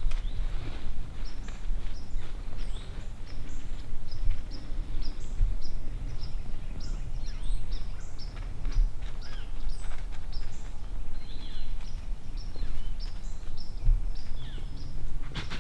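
Small birds chirping over and over in short, high notes, over a steady low rumble. A brief rustle comes near the end.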